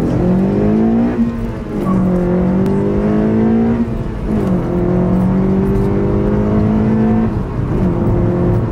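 Honda Civic Si engine accelerating hard through the gears, heard from inside the cabin. Its pitch climbs and drops back at each upshift, several times.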